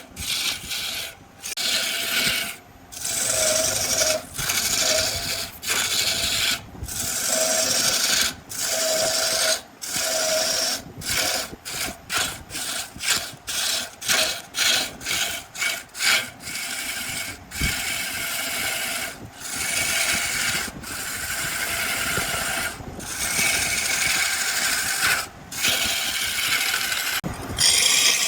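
Wood lathe turning a log while a gouge cuts into the spinning wood, a loud rasping scrape that starts and stops abruptly many times, in quick short stretches around the middle.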